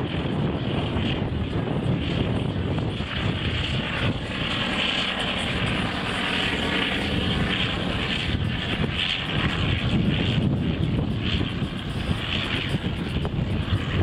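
A fixed-wing aircraft flying, its engine a loud, steady drone that swells slightly about ten seconds in.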